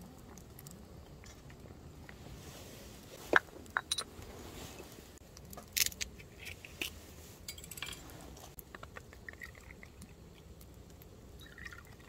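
A pot of doenjang soup bubbling at a full boil, with scattered sharp clinks and knocks of utensils and dishes, the loudest about three and a half seconds in.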